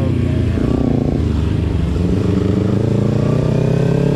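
Motorcycle engine running at a fairly steady pitch, with a slight dip and recovery about a second in.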